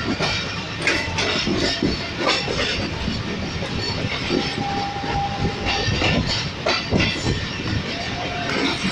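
Passenger train running on the line, its wheels rumbling and clattering over the rail joints in a steady run of irregular knocks. A short steady high tone sounds about halfway through.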